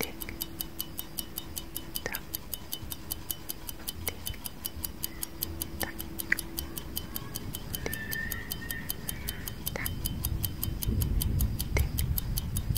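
Clock-style tick-tock sound effect: rapid, even ticking with a stronger click about every two seconds. A low rumble builds underneath near the end.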